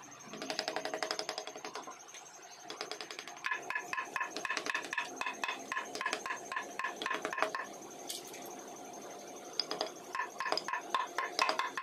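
Hand wood-carving tools tapping and clinking in quick runs of about five strikes a second, each strike ringing briefly.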